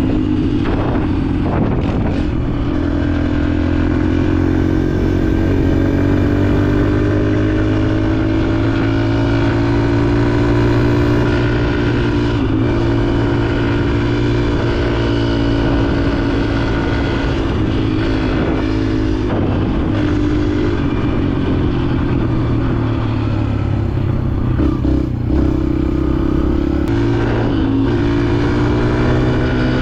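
Dirt bike engine running under way, its pitch rising and falling gently with the throttle, with a few brief knocks and clatters from the bike over the trail.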